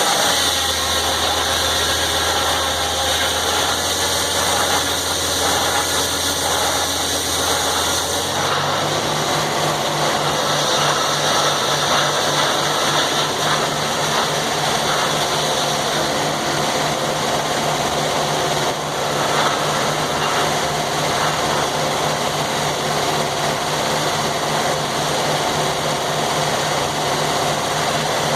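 Sawmill engine running steadily. About eight seconds in its low tone changes to a slightly higher steady hum.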